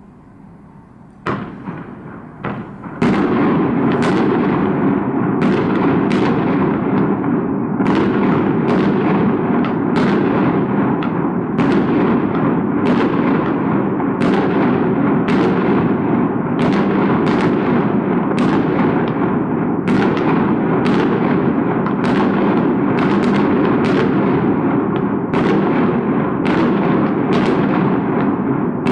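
Aerial fireworks going off: a few separate bangs in the first three seconds, then a continuous barrage, sharp bangs roughly every half second to a second over a steady dense din, each bang trailing off in echo.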